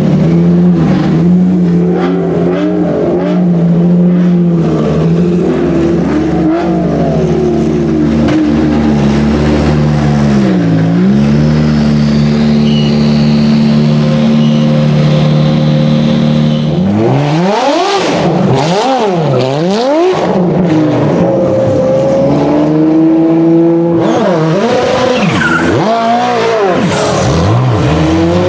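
Ferrari P80/C's 3.9-litre twin-turbo V8 running at a steady, lumpy idle, with one brief dip in revs. About two-thirds of the way through it is revved up and down sharply several times, and near the end it is blipped again.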